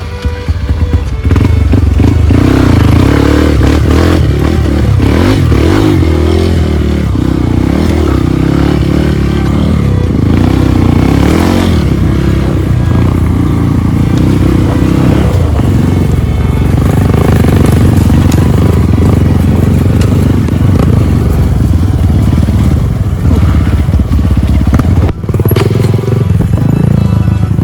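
Trail motorcycle engine running under load, its pitch rising and falling as the throttle is worked over rough ground.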